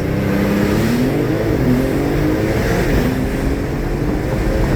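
Twin-turbo Porsche 911's flat-six engine at full throttle in a launch-control start: revs held steady, then climbing hard, with quick upshifts about a second and a half and three seconds in, each followed by the revs rising again.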